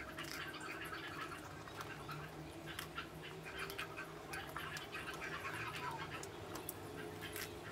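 Chewing of crunchy toasted baguette pizza: a quiet run of small crackling clicks and wet mouth sounds.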